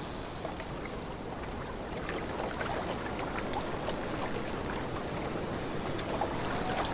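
Small lake waves lapping and splashing over a steady wash of wind. A faint rising tone comes in at the very end.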